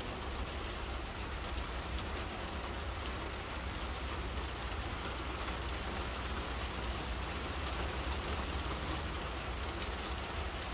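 Steady rain falling, an even hiss, with a constant low rumble underneath.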